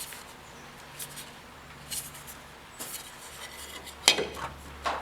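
A handful of light, sharp metallic clinks and taps from a small 18-gauge steel patch panel being handled and set against the car body, the loudest about four seconds in.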